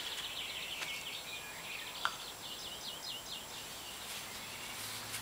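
A small songbird singing in quick runs of short falling notes, two runs with a pause between. There is one sharp tick about two seconds in.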